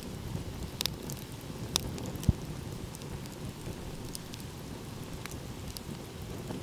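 Wood campfire crackling with scattered sharp pops, the loudest a little over two seconds in, over a steady low rumble.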